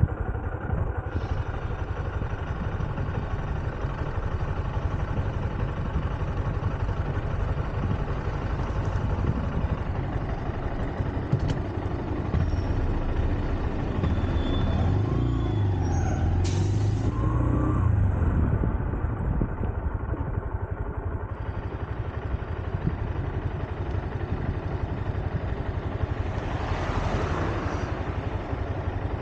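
Honda CB125F's single-cylinder engine running on the move in traffic. Its pitch rises and falls a few times around the middle as the bike accelerates and eases off. A brief hiss comes near the end.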